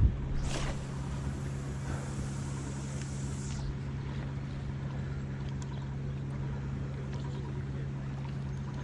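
Steady low engine drone of a boat on the water. A sharp knock right at the start is followed by a high hiss that stops suddenly a few seconds in.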